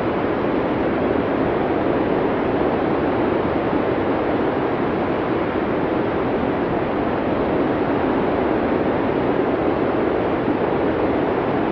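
Blizzard wind ambience: a steady, even rush of noise, fullest in the low-middle range, with no gusts or separate events.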